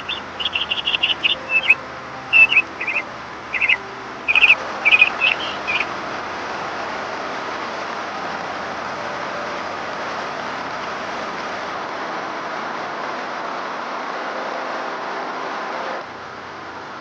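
Steady rainfall hiss, growing louder about four seconds in. Over the first six seconds a bird gives quick series of high chirps. Near the end the rain drops to a quieter hiss.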